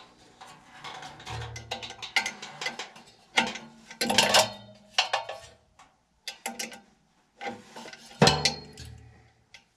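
Irregular metallic clanks and clicks of tools and parts being handled while a furnace blower's loose, stripped motor mount bracket is tightened. The knocks come in clusters, the loudest about four seconds in and again near the end.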